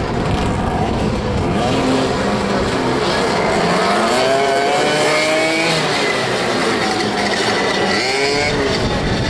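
Several motoball motorcycle engines revving, their pitches rising and falling and overlapping as the riders accelerate and ease off.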